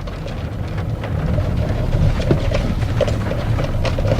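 A car's engine and road noise heard from inside the cabin, a low drone that grows louder as the car picks up speed, with scattered light ticks of rain on the car body.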